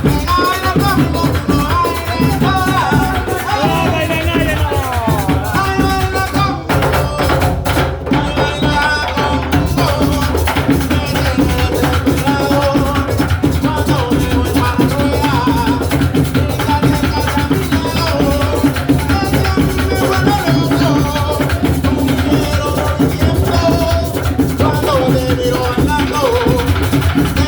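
Drum-led music: many drums and rattles beating a fast, steady rhythm with a melody over it.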